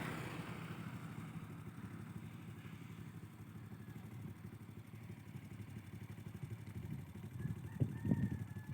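A small engine running steadily at low revs, with a brief higher tone near the end.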